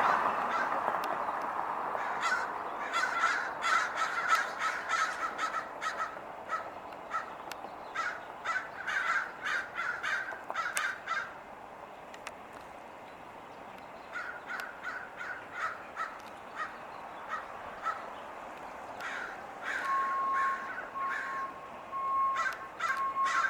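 A flock of American crows cawing in runs of short, repeated caws, with a short lull midway. Near the end a steady electronic beep repeats evenly in the background.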